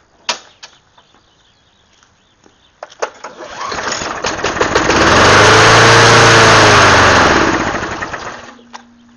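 A Toro GTS mower's 6 hp engine on a cold start. About three seconds in it catches and runs up, then slows and dies out about eight and a half seconds in. It does not keep running, which the owner puts down to not priming it enough.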